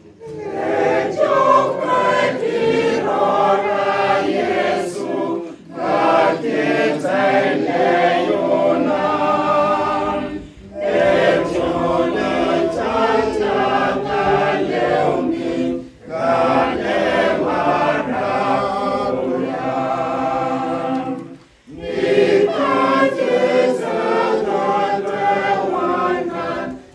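A choir singing unaccompanied in several voices, in phrases of about five seconds with brief breaths between them.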